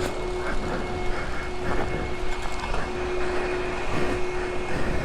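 High-pressure water spray from a self-serve wash wand rinsing a pit bike, a steady hiss over a constant hum.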